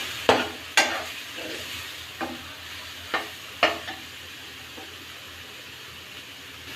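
Masala paste and ground coriander frying in a pan with a low, steady sizzle, stirred with a spatula that knocks and scrapes against the pan about five times in the first four seconds.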